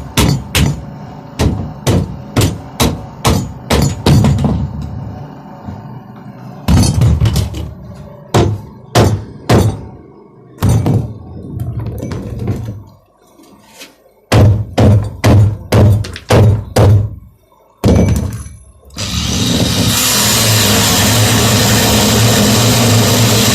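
Repeated hammer blows in runs of several strikes, about two to three a second, with pauses between the runs. Near the end a motor starts and runs steadily and loudly.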